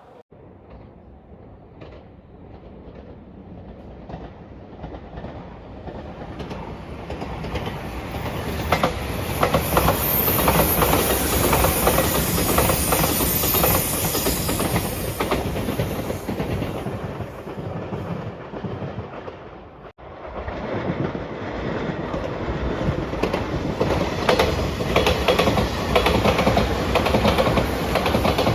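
Electric passenger train passing close by, wheels clacking over the rail joints. The sound builds over several seconds to a loud, steady rush. About two-thirds of the way through it breaks off abruptly, and a second loud train passage rises in its place.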